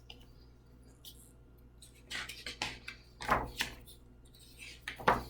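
Light clicks and rustles of a picture book being handled and its pages turned, in a few short bursts starting about two seconds in.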